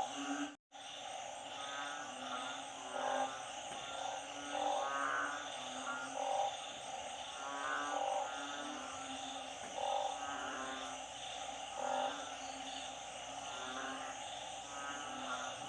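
A chorus of frogs and narrow-mouthed toads calling after flooding rain: short calls, some with a rapid pulsing, repeat about every second at several pitches over a steady background chorus. The sound drops out for a moment about half a second in.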